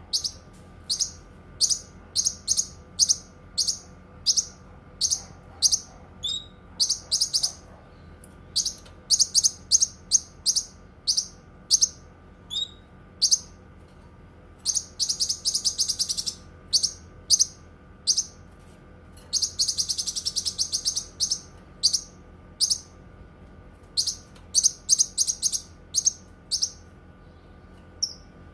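Cucak kinoi singing: a long run of short, sharp, high chirps, about one or two a second. The run is broken twice by a rapid chattering trill, once about halfway through and again about two-thirds through.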